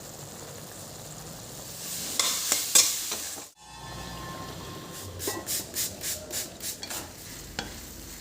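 Food frying in a pan with a steady sizzle, stirred with a utensil that clicks against the pan. The sound cuts off abruptly about three and a half seconds in, and later comes a run of quick stirring or scraping strokes, about four a second.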